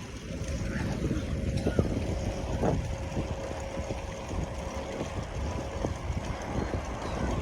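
Wind rumbling on the microphone during a road bike ride, with road traffic noise. A faint steady hum runs underneath and stops about five seconds in.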